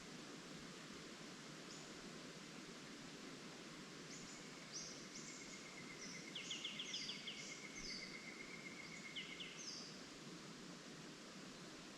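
Small birds calling and singing over a steady rustle of leaves in the wind. Short, high notes begin about four seconds in, with quick rattling trills around the middle and again shortly after, fading out before the end.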